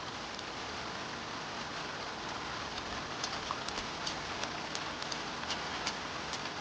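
Steady rain falling, with single drops ticking sharply here and there from about three seconds in.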